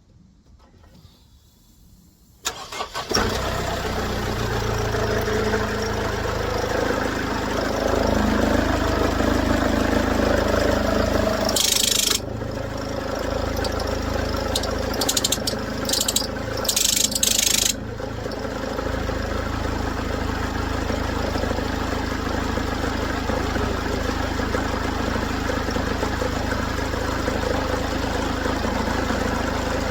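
Mercedes W204 engine cranking and starting about two and a half seconds in, then idling steadily; the engine still runs rough after a new belt tensioner pulley, according to the mechanic. A few short hissing bursts come about halfway through.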